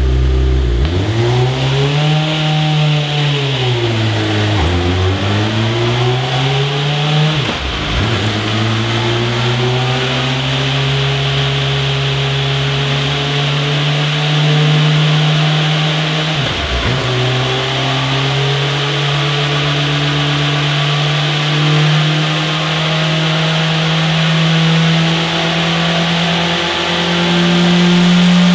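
Motorcycle engine running under hard load, its pitch climbing steadily and then falling off sharply at each gear change, about 5, 8 and 17 seconds in.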